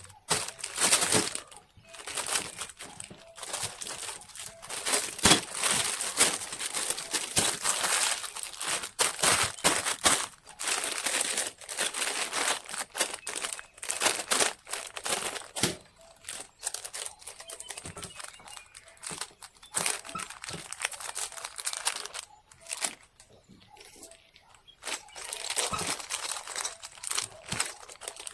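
Continuous crinkling and crackling, dense irregular crackles with a few brief lulls.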